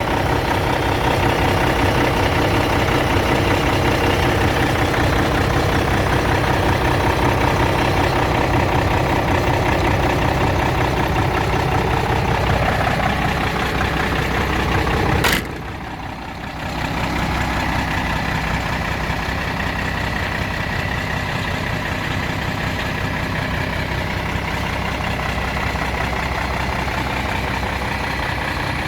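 Iveco Eurotech 440E38 truck's six-cylinder diesel engine idling steadily. Halfway through there is a sharp click, after which the engine sounds quieter.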